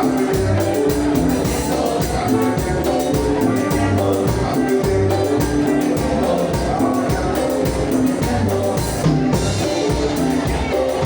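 Live band music with a steady dance beat, bass and percussion.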